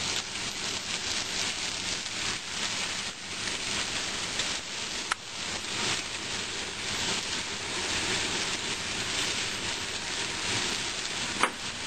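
Tomato wedges sizzling in a hot wok while being turned with a metal spatula, with a sharp click of metal on the wok about five seconds in and another near the end.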